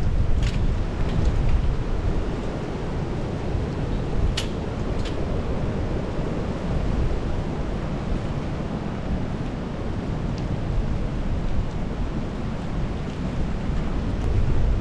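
Strong gusting wind buffeting the microphone, a steady low rumble, with a few sharp ticks.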